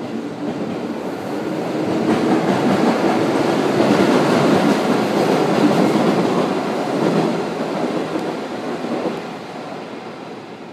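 A train passing through the station, its rumble swelling to a peak about midway and then fading away.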